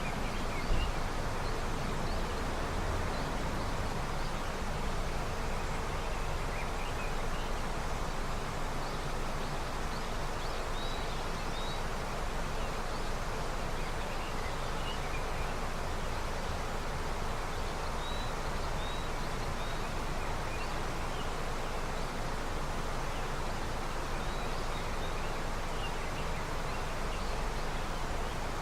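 Snowmelt river flowing steadily, a continuous even rush of water, with small birds chirping faintly now and then above it.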